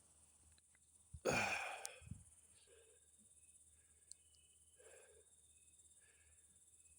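A person's single heavy sigh about a second in, then only faint soft breathing.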